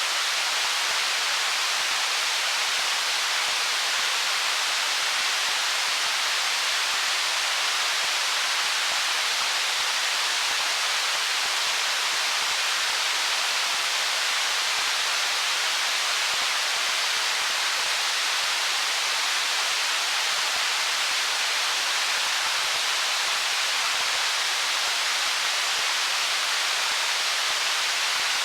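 Stream water running over stones: a steady, even rush of water, bright and hissy, with no change in level or pattern.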